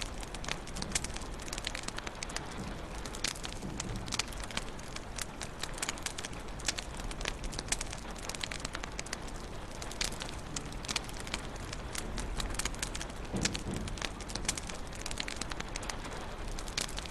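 Wood fire crackling in a fireplace: frequent sharp pops and snaps over a steady hiss and low rumble of the flames.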